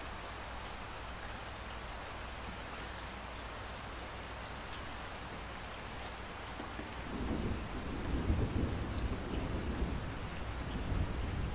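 Steady rain falling, with a low rumble of thunder building about two-thirds of the way in and rolling on to the end.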